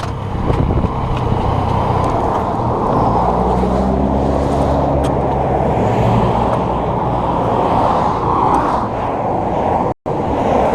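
Road-going motor vehicle noise while riding: a loud, dense rush of engine and traffic noise, with a steady engine note holding for a few seconds near the middle. The sound cuts out for an instant near the end.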